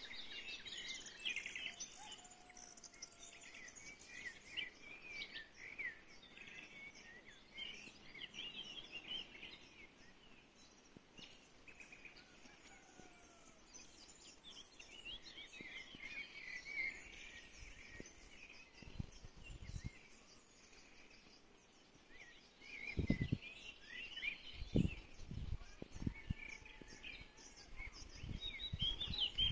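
A dense chorus of many small birds chirping and twittering, their high calls overlapping throughout. In the last third several deep low rumbles come and go, the loudest of them near the end.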